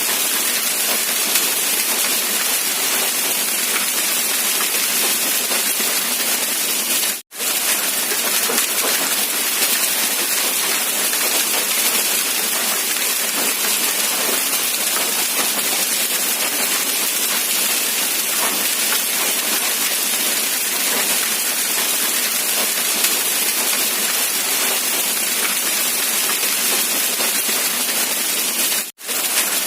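Steady rain falling, an even hiss of many drops with no single strikes standing out. It cuts out to silence for an instant twice, about seven seconds in and near the end.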